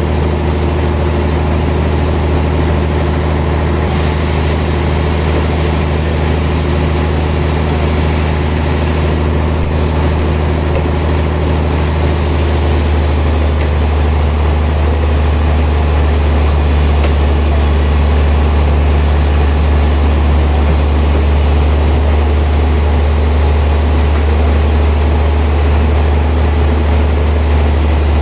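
Sawmill machinery running with a steady low drone. The tone shifts slightly about twelve seconds in, with more hiss at the top.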